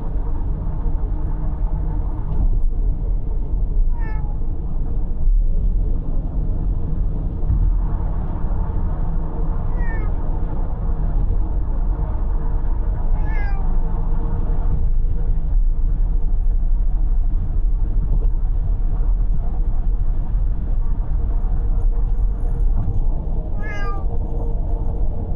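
A cat meowing four times, spaced out, each call short and falling in pitch. Under it is the steady road and engine noise of a car driving on the expressway.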